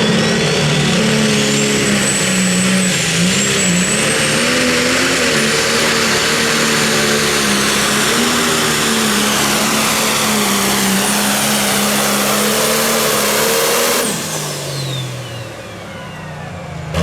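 Pro Stock pulling tractor's turbocharged diesel engine running flat out on a pull, with a high turbo whistle climbing over the first two seconds and holding. About 14 seconds in the engine comes off full throttle and the turbo whine winds down, falling in pitch.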